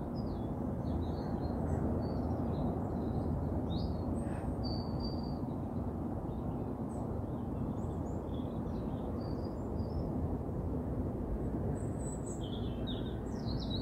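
Small birds chirping in the trees: many short, high calls throughout, busiest near the end, over a steady low background noise.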